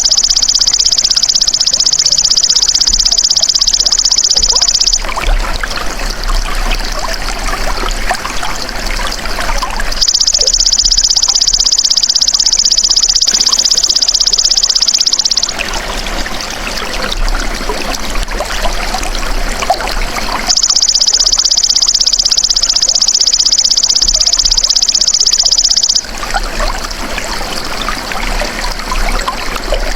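Belalang emas (golden grasshopper) insect calling with a high-pitched, continuous buzzing trill in three stretches of about five seconds each, separated by gaps of about five seconds. Flowing water trickles throughout.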